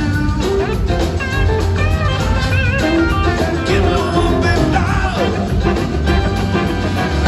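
A band playing rock music, with a singing voice over a heavy bass line.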